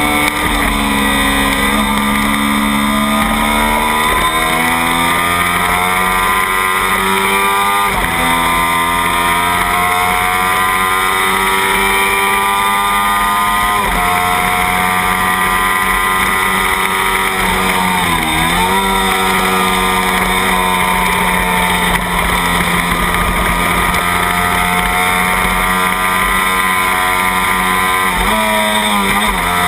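Kawasaki Ninja 250 parallel-twin racing engine at full throttle, heard onboard: the engine note climbs through the gears and drops sharply at two upshifts in the first half, then dips briefly and climbs again twice later on as the rider rolls off and back on.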